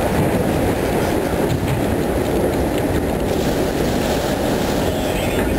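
Freight train of autorack cars rolling past close by: a steady noise of steel wheels on rail with scattered clicks from the trucks.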